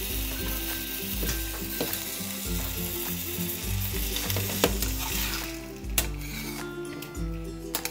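Sliced chicken sizzling in barbecue sauce in a stainless steel skillet over low-to-medium heat. The sizzle thins out about five and a half seconds in, and a spoon clicks against the pan a few times as it bastes the chicken.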